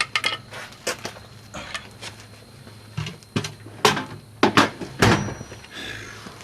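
Steel hand tools clanking and knocking together: a run of irregular sharp clanks, loudest about four to five seconds in, with a brief metallic ring near the end.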